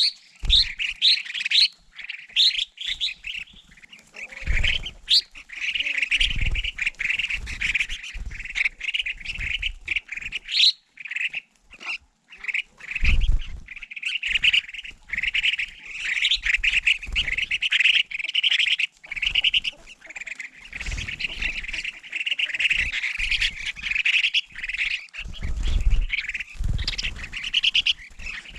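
A flock of collared finchbills calling: dense, near-continuous chattering of short repeated notes, with occasional low thuds.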